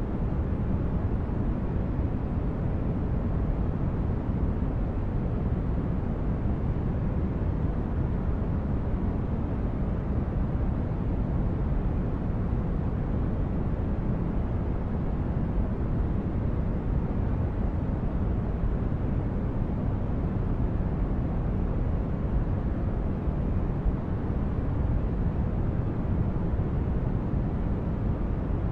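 Continuous white-noise track for sleep: a steady, unchanging hiss weighted toward the low end, so it sounds deep and soft rather than bright.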